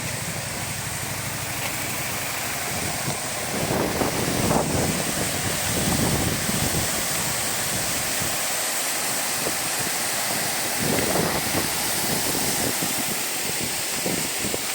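Waterfall: a steady rush of falling water, with low gusts of wind buffeting the microphone from time to time.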